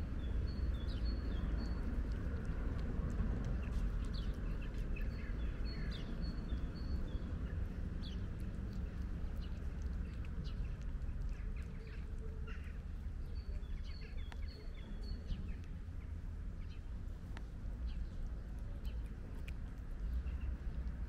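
Small birds chirping in short runs of high notes, three times, over a steady low rumble. There are faint scattered clicks of a cat chewing dry kibble.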